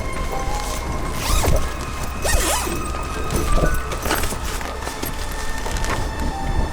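Strong wind buffeting a tent: a steady low rumble of wind on the microphone, with the tent fabric rustling and flapping in several short bursts.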